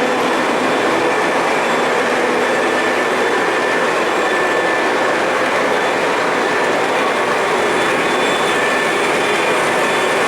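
O scale model train running steadily along its track, a continuous rolling noise of wheels on rail.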